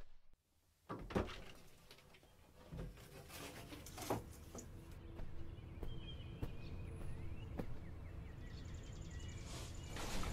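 Faint bird chirping over a steady low background rumble, with a few scattered knocks and clicks, the loudest about a second in.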